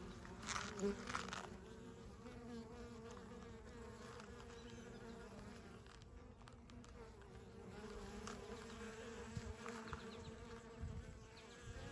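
Honey bees buzzing at a hive entrance: a steady hum of foragers flying in and out. A couple of brief rustles sound about a second in.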